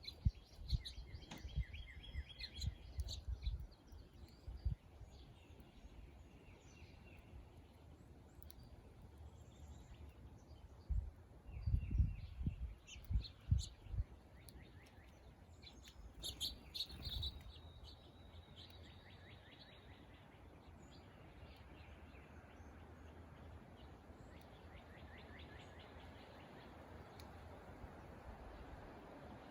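Songbirds singing, repeated high trilled phrases of rapid, evenly spaced notes. Low rumbling thumps come in clusters in the first few seconds and again, loudest, about twelve seconds in.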